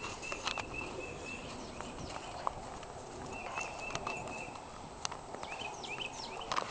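A bird calling in two runs of short, rapid, evenly repeated notes, with a few falling chirps near the end, over scattered sharp ticks and taps.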